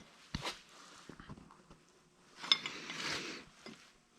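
Small metal clinks and ticks from brake parts being handled, with a louder clink and a short rustle about two and a half seconds in.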